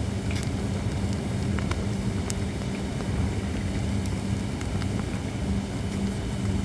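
Holly firewood burning in an open fire: a steady low rush from the flames, with scattered sharp crackles and pops.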